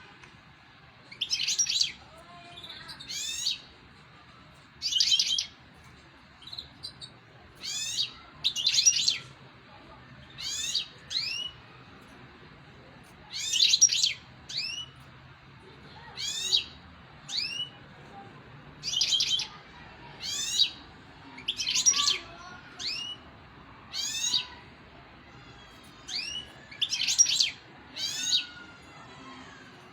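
A small songbird giving short, high call phrases of quick sweeping notes, repeated every second or two with short pauses between.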